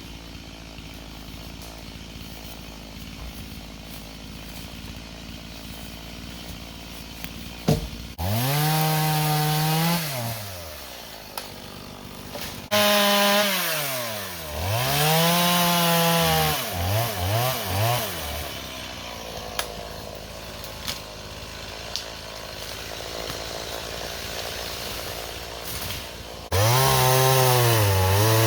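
Two-stroke chainsaw idling quietly, then revved to full speed in several bursts, its pitch sagging and recovering, with a few short throttle blips about halfway through. It drops back to idle for several seconds, then runs up to full speed again near the end.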